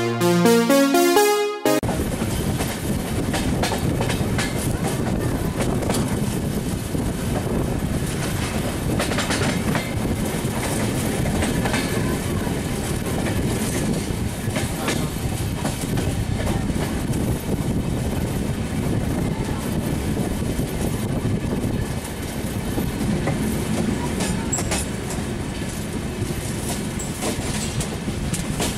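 A short burst of electronic intro music, then an Indian Railways express passenger train's coaches running over the rails, heard from aboard a moving coach. There is a steady running rumble with irregular clicks and clacks from the wheels crossing rail joints and points.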